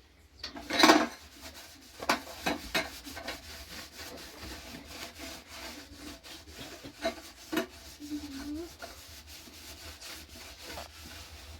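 Irregular scraping and rubbing with scattered sharp knocks, the loudest about a second in, as of materials being handled and worked by hand.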